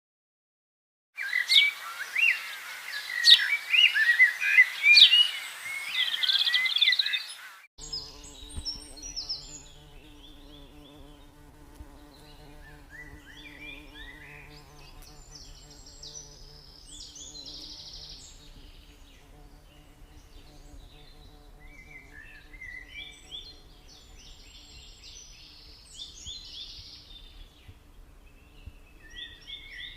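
A flock of small caged birds chirping busily and loudly, which cuts off abruptly; then quieter, scattered chirps over a steady electrical hum.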